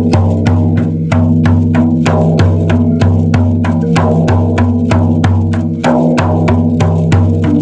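Steady drumming, about four strikes a second, over a low sustained drone of held tones.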